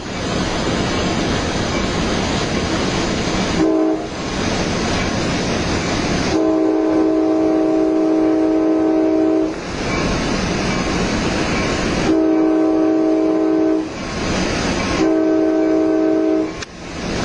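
A train's multi-note air horn sounding a chord: a brief toot, then one long blast and two shorter ones. The steady rumble of the train running on the rails fills the gaps between the blasts.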